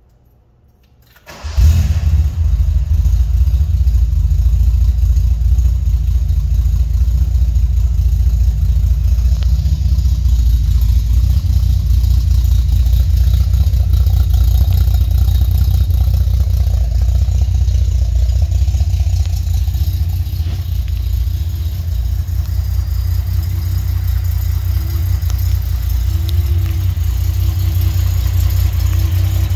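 1973 Datsun 240Z's inline-six, fed by side-draft carburettors, fires up quickly about a second and a half in, then settles into a steady idle.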